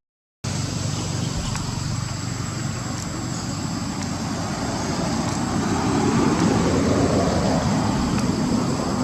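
Steady road-traffic rumble with one vehicle passing, swelling louder and then fading about six to eight seconds in.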